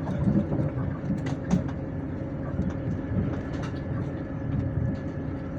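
Passenger train running, heard from inside the carriage: a steady low rumble of wheels on the track with a constant hum and scattered short clicks and rattles.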